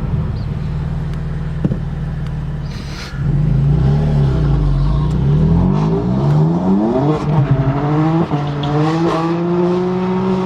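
BMW M4's twin-turbo straight-six with aftermarket downpipes, heard from inside the cabin. It runs steadily, then grows louder about three seconds in and rises in pitch as the car accelerates, breaks off briefly past the eight-second mark, and holds steady at higher revs near the end.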